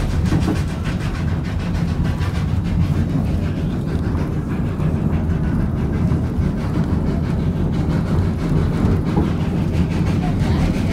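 Narrow-gauge steam train running, heard from on board: a steady low rumble of the cars rolling on the rails.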